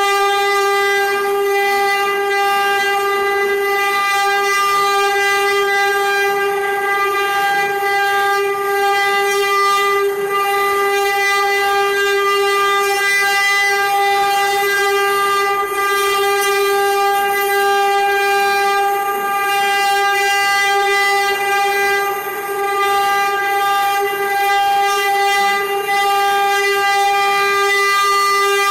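Spindle motors of a six-head CNC router and engraver running, a loud steady whine at one unchanging pitch with a string of overtones.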